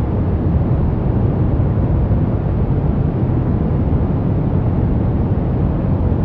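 Steady brown noise: an even, unchanging rumbling hiss with most of its energy in the low end, falling away toward the highs.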